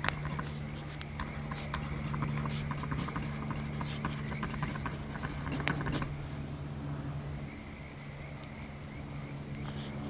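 Wood fire crackling, with irregular sharp pops and snaps over a low steady background.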